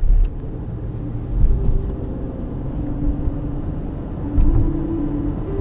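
A loud, low rumble with a few louder swells, the kind of sound a running vehicle makes; faint sustained music notes come in toward the end.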